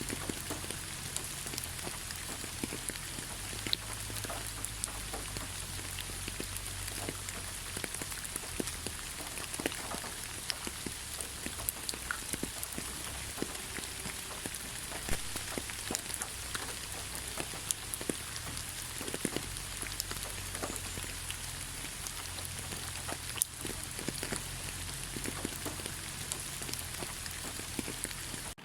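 Steady rain falling, with many individual drops heard as short sharp ticks as they strike a surface.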